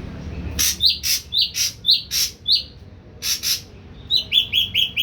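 Captive ashy drongo singing, a bird the title says has only recently started to sing. It gives a string of harsh, rasping notes, each followed by a short clear whistle. Near the end it breaks into a quick run of short, falling whistled notes.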